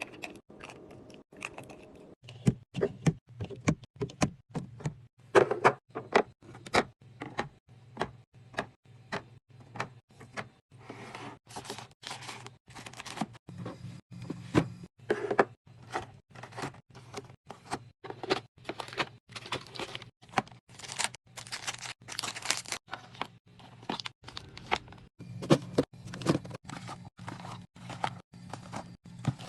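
Containers and bottles being handled and set down while a mini fridge is restocked: a steady run of sharp clicks, taps and knocks, with a low hum under parts of it.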